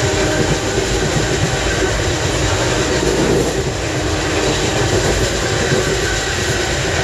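Passenger train running, heard from inside the carriage: a steady, loud rumble of the moving coach.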